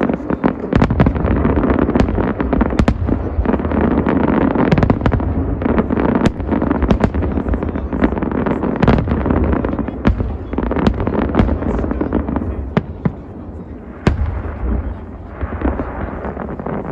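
Fireworks display: dense crackling and booming with many sharp bangs over a heavy low rumble, easing off near the end, where a single sharp bang stands out.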